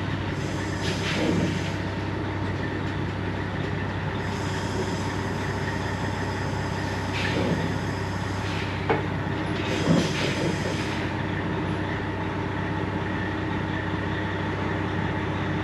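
Semi truck's diesel engine running steadily at low speed while backing into a loading dock, with four brief high-pitched brake squeals and a sharp click about nine seconds in.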